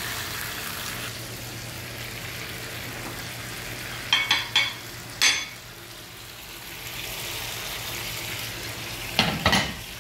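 Chicken and vegetables frying in a pan with a steady sizzle. A few short clinks and knocks come around the middle and again near the end.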